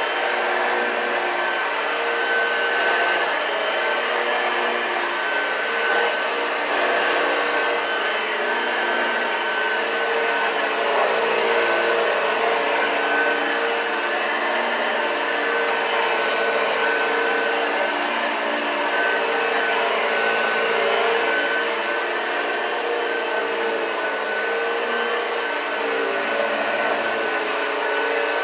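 1986 Hoover Junior U1206 upright vacuum cleaner running steadily: a continuous motor whine whose pitch wavers slightly.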